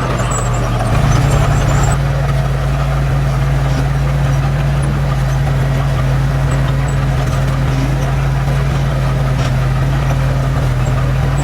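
Diesel engine of heavy earthmoving equipment running steadily with a low, even hum, picking up slightly about a second in.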